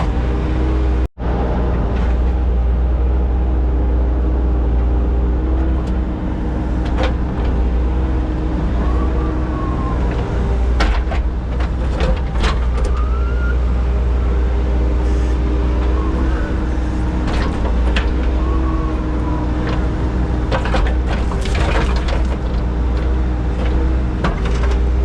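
Heavy equipment engine running steadily, with sharp knocks and clanks now and then, most of them around ten to thirteen seconds in and again around twenty-one seconds.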